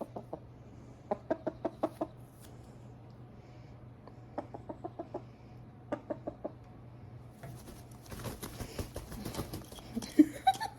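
A hen clucking in short runs of four or five quick clucks, three times over, followed by a few seconds of rustling near the end.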